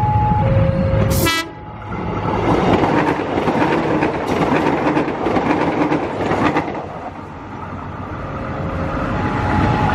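A level crossing's electronic warning alarm alternating between two steady tones, cut short by a brief train horn blast; then the Solo Ekspres diesel multiple unit passes close by with loud rolling noise and wheels clattering over the rail joints. Near the end the crossing's two-tone alarm sounds again.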